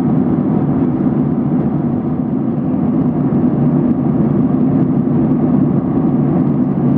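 Steady cabin noise inside a Boeing 737-800 in cruise: airflow over the fuselage and the drone of its CFM56 engines, even and unchanging.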